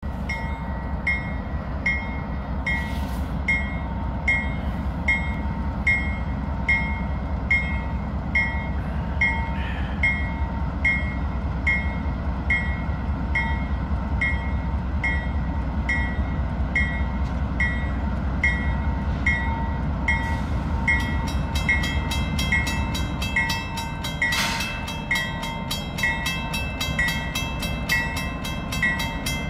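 A bell rings steadily, about one and a half strikes a second, over the low rumble of a CN freight train's diesel locomotives. The rumble eases off in the last several seconds.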